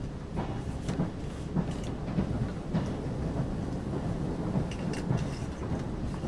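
Limited Express Yakumo train running at speed, heard from inside the carriage: a steady low rumble with irregular sharp clicks and knocks from the wheels and bogies on the track.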